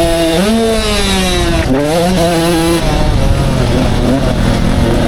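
Two-stroke 85cc motocross bike engine revving, its note rising, sinking slowly and rising sharply again. About three seconds in, the clear note gives way to a lower, rougher drone.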